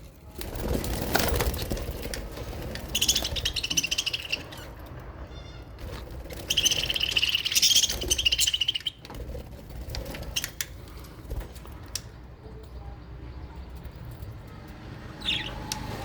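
Small aviary parrots chattering in two bursts of rapid, high twittering, one about three seconds in and a longer one from about six and a half to nine seconds, with wing flutters and short knocks between.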